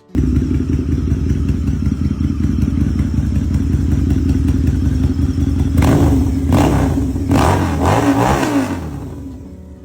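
2006 Harley-Davidson Night Rod's V-twin idling steadily, then revved twice in the second half, the engine note sliding back down after each blip before the sound fades out near the end.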